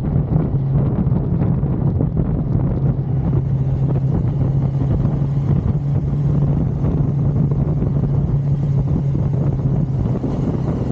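1982 Suzuki GS550L's air-cooled inline-four engine running at a steady cruise, holding an even note with no revving, under heavy wind rush on the microphone.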